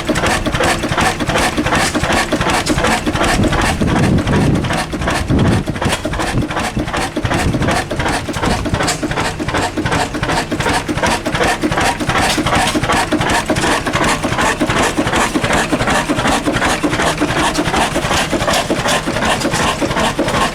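37-horsepower diesel engine running steadily with a rapid, even clatter.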